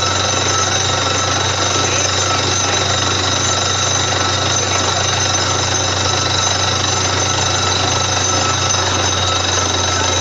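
Borewell drilling rig at work: a steady, loud engine drone under a continuous rapid hammering of the drill.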